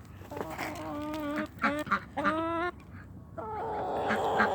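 Domestic ducks quacking: a run of loud calls, two of them drawn out, the last harsh and raspy.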